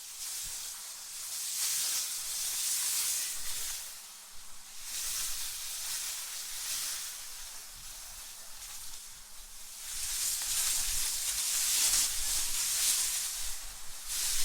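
AI-generated cold wind ambience: a hissing rush of wind that swells and fades in gusts, three waves in all, with a low rumble joining about ten seconds in.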